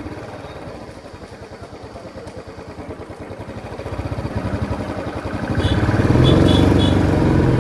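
Royal Enfield Classic 350's single-cylinder engine running with an even low thump at low revs, then revving up from about four seconds in and pulling louder under acceleration near the end.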